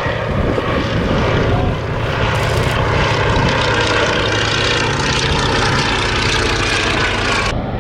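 Fairey Swordfish biplane's Bristol Pegasus nine-cylinder radial engine running in flight: a steady propeller drone with a broad rushing hiss above it. The upper hiss cuts off abruptly near the end.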